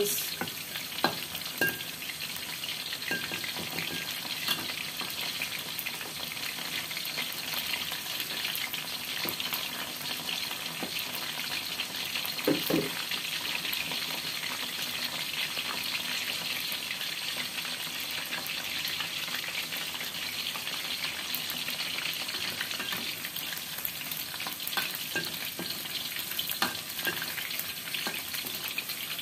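Thin, cornstarch-coated chicken fillet pieces deep-frying in hot oil in a wok, giving a steady crackling sizzle. The spatula stirring them knocks against the wok a few times, most clearly about twelve seconds in.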